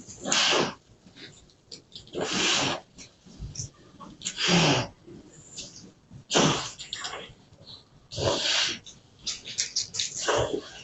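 Harsh, noisy animal cries and snarls in short bursts about every two seconds, from dogs attacking a cat.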